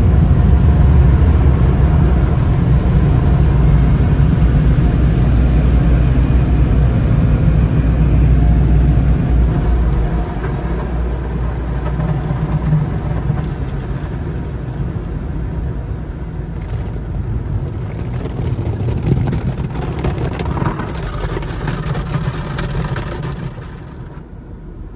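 Car wash tunnel's high-powered air dryer blowers, heard from inside the car cabin: a loud, steady rush with a deep rumble that eases off gradually and drops away sharply near the end as the car leaves them.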